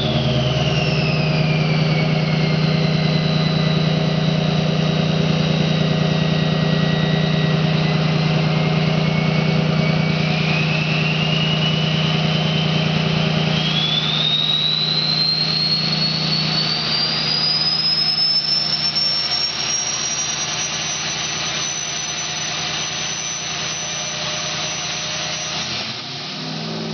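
2003 Ford 6.0L Powerstroke V8 diesel, straight-piped with its stock variable-geometry turbo, running steadily under a loud turbo whistle. The whistle slides down in pitch over the first several seconds, then climbs slowly back to a high, held tone that cuts off near the end, as the turbo's vane position is changed with a scan tool.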